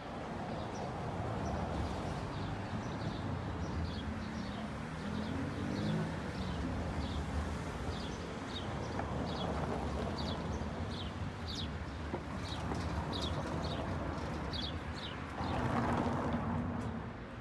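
A small bird chirping over and over, a short high note about twice a second, above the low rumble of street traffic; a car passes close near the end.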